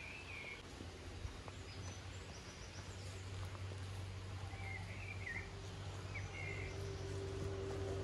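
Birds calling outdoors: a few short chirping phrases, near the start, about five seconds in and again a second later, over a steady low background hum.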